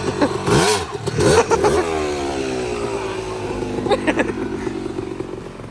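Dirt bike engine revving hard, its pitch rising and falling in quick blips, then a long falling note as the bike eases off the throttle.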